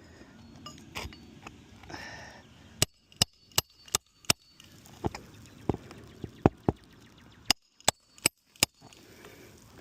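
Hammer striking nails into a shingle roof: a quick run of about four sharp blows, a few more spaced-out blows, then another run of four near the end.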